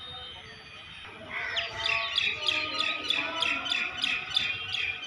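A bird singing: a rapid run of short, repeated high chirps, about four a second, starting about a second in.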